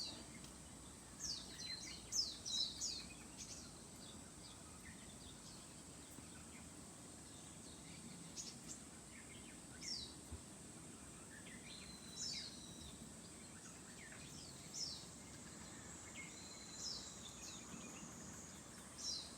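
Small wild birds in a passing flock calling with short, high, downward-sweeping chirps, a quick cluster in the first few seconds and then single calls every couple of seconds.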